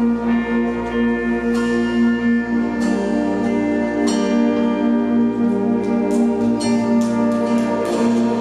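Worship band playing an instrumental interlude between songs: held chords that change about three seconds in, with light cymbal strikes over them.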